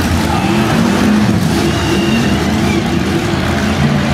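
Demolition derby cars' engines running and revving together, their pitch rising and falling, loud and continuous.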